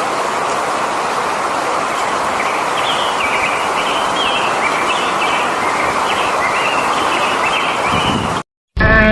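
Steady outdoor background noise with small birds chirping faintly in short repeated notes. A sudden cut to silence falls near the end.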